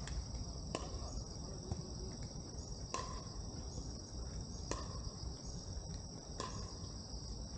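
Insects chirping in a steady, high, pulsing chorus, with four sharp knocks about every two seconds and a low rumble underneath.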